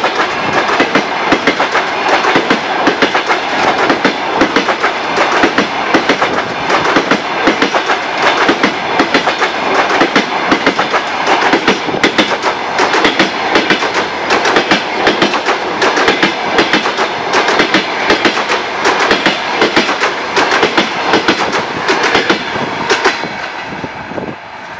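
Passenger coaches of a long-distance train passing close by, their wheels clattering over rail joints in a fast, dense clickety-clack. The sound drops away near the end as the last coach passes and the train moves off.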